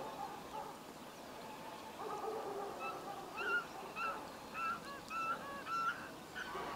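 A bird calling: starting about three seconds in, a quick run of about eight short calls, roughly three a second, each bending slightly in pitch, over a faint steady background hiss.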